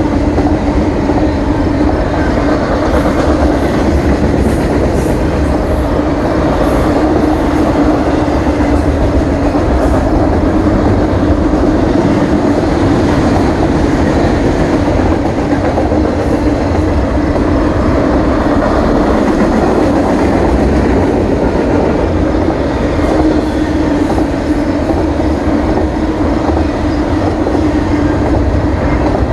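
Double-stack container freight train rolling past, its steel wheels running on the rails with a loud, steady, unbroken noise.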